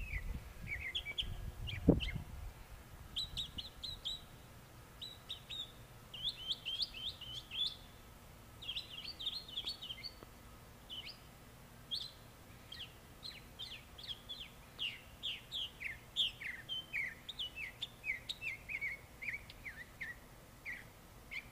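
A songbird singing a long run of quick chirps and short down-slurred notes, in bursts with brief pauses. A single low thump about two seconds in.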